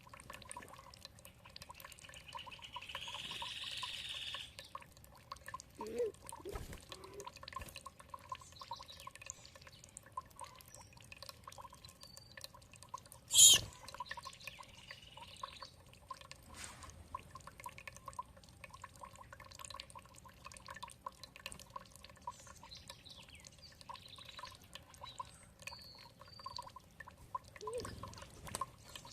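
Water dripping and trickling with many small drops, while birds give scattered short chirps. A single sharp click about halfway through stands out as the loudest sound.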